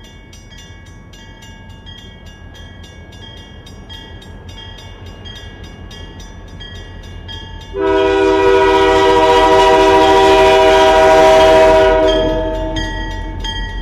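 A bell rings rapidly, about five strokes a second. About eight seconds in, a train's multi-tone air horn sounds one loud blast of about four seconds, then fades while the bell keeps ringing.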